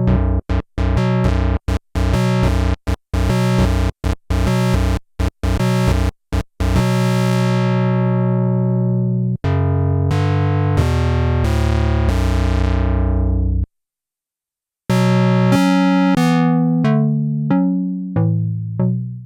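Sequential analog polyphonic synthesizer playing chords: a run of short staccato stabs, then held chords whose bright top dies away, changing about once a second. It stops dead for about a second, then more chords follow that fade out near the end.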